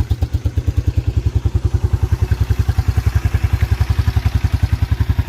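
1987 Yamaha Moto-4 350 (YFM350ER) single-cylinder four-stroke engine idling steadily with an even exhaust pulse and a low exhaust growl. It runs quietly, with no knocking or tapping, a sign of a healthy engine.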